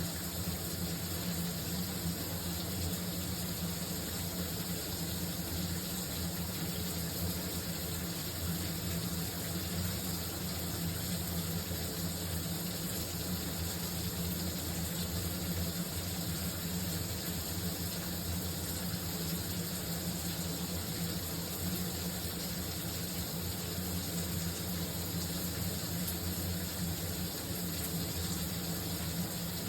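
Shower running steadily, a continuous spray of water with a low, even hum underneath.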